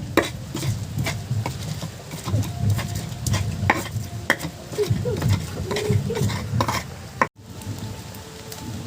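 A metal utensil stirring and knocking against a cooking pan, with light sizzling and many sharp clicks. About seven seconds in, the sound cuts off abruptly and gives way to a steadier hiss.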